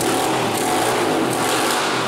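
SSR pit bike's single-cylinder engine running steadily on a newly fitted aftermarket carburettor, idling without any tuning.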